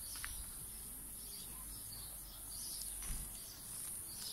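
Faint outdoor ambience: scattered distant bird chirps over a steady high hiss.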